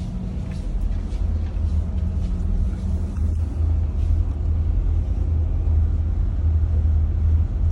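Cruise boat's engines running with a steady low drone.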